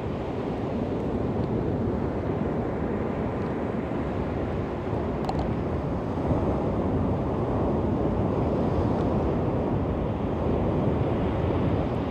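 Waves washing onto a beach: a steady rushing noise that swells gently every few seconds, with wind rumble on the microphone.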